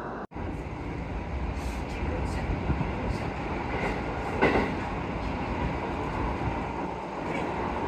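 JR Kawagoe Line electric commuter train running, heard from inside the carriage: a steady low rumble of wheels on the rails, with a brief sharper sound about four and a half seconds in.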